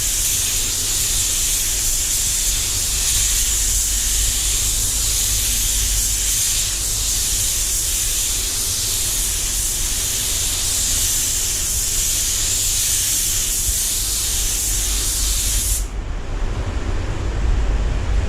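DeVilbiss DV1 HVLP spray gun hissing steadily as it lays down metallic base coat, cutting off suddenly near the end when the trigger is released, leaving the low rumble of the spray booth.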